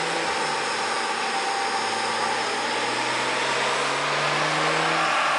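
Nissan 300ZX Twin Turbo's 3.0-litre twin-turbo V6 running on a chassis dyno, its pitch climbing slowly over a steady rushing noise.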